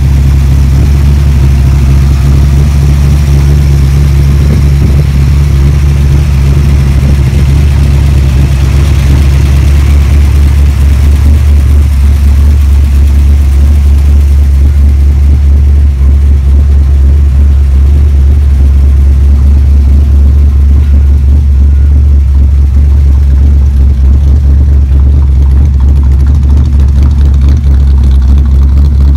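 383 small-block Chevrolet V8 idling steadily and loudly, its sound sitting mostly in the low end.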